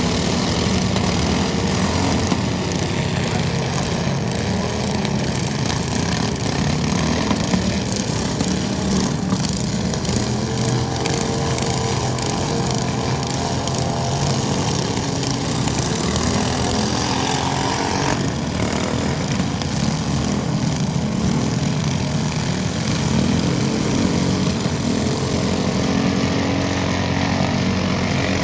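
Small tractor engine running continuously with a steady, loud drone.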